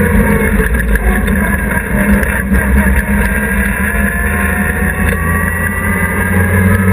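A hillclimb race car's engine running at low, fairly steady revs, heard from inside the cockpit as the car rolls slowly along the road.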